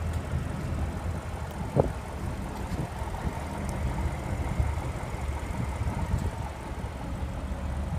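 A car engine idling with a steady low rumble, and a brief click about two seconds in.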